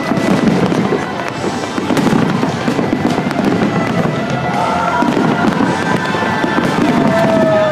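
Dense barrage of aerial fireworks: continuous crackling and booming of many shells bursting, with a few whistles gliding down in pitch in the second half.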